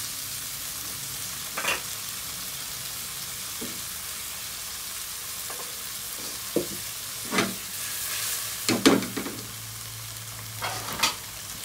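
Diced pork sizzling steadily in oil and a little water in a nonstick wok. A spatula scrapes and stirs against the pan several times, loudest about nine seconds in.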